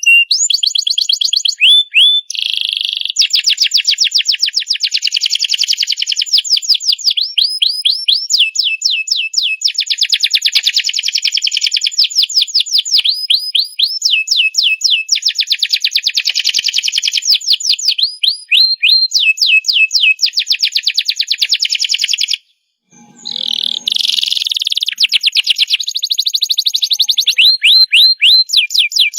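Domestic canary in full song: a long, nearly continuous song of fast trills and rolls, with runs of repeated down-slurred notes. The song breaks off briefly about three quarters of the way through, then starts again.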